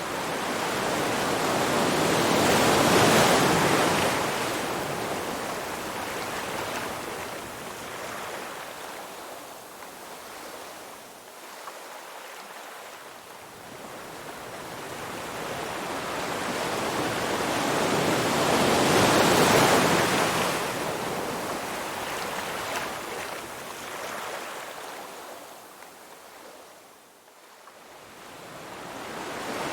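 Ocean waves breaking and washing in. Two large swells peak about 3 and 19 seconds in, each followed by a long hiss as the water draws back, and another wave is building at the end.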